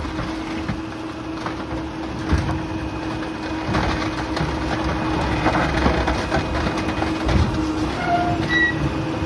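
Rear-loader garbage truck compacting bulky debris: a steady hydraulic hum under scattered cracking and crunching, with a few short squeaks near the end.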